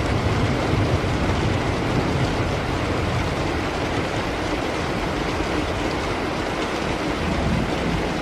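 Steady heavy rain, with a low rumble of thunder dying away in the first couple of seconds.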